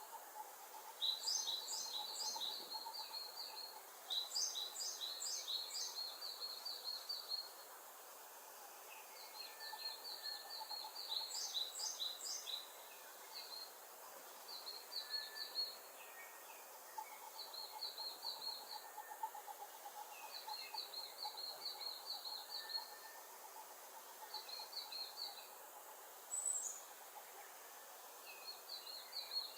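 Wild birds singing: repeated high, quick trilled phrases of one to three seconds each, coming every few seconds over a faint outdoor background.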